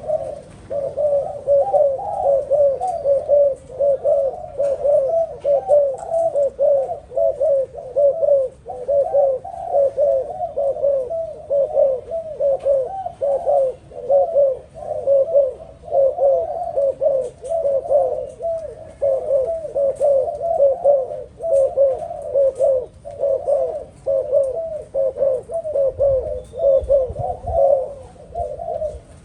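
Kept dove cooing steadily in a rapid run of short warbling notes, several a second, with hardly a break. A low rumble comes in near the end.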